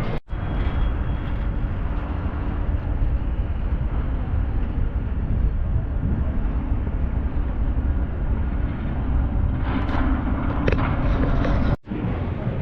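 Steady low rumble of a vehicle in motion, cut off briefly twice, once just after the start and once near the end.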